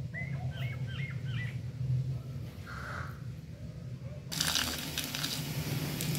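A small bird chirping, a quick series of about six short, high, hooked chirps, then one softer call a little later, over a steady low hum. About four seconds in, a sudden burst of rustling and clicking noise takes over.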